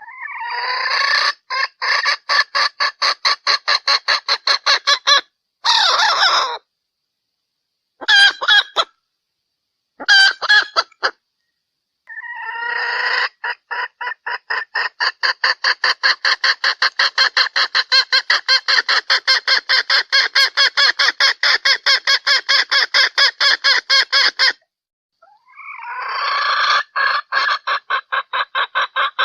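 Junglefowl hen clucking in long runs of rapid, evenly repeated clucks, about six a second, broken by a few short bursts and pauses; a hen call of the kind used to lure cock junglefowl.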